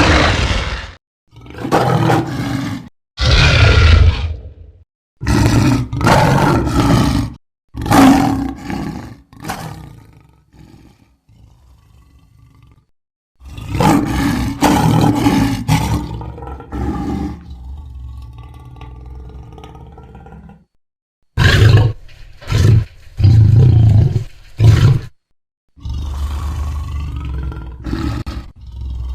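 Movie-style dinosaur sound effects for an Allosaurus: a string of deep, rough roars, each one to three seconds long with short silent gaps between them. Some calls trail off into a quieter, drawn-out growl.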